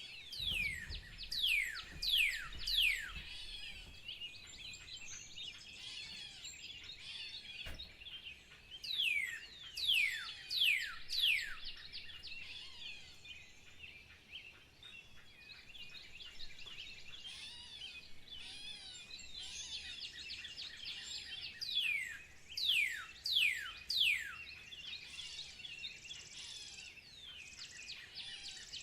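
Birds singing: a run of three or four loud, quickly falling whistles, repeated several times, over a steady background of chirping.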